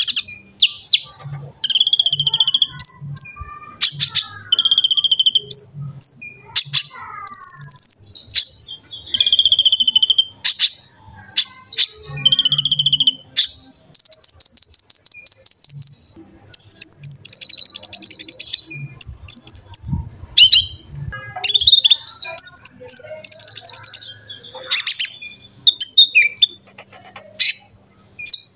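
Konin (kolibri ninja) sunbird singing in quick, high-pitched twittering phrases and rapid trills, with short gaps between phrases and one longer trill about halfway through.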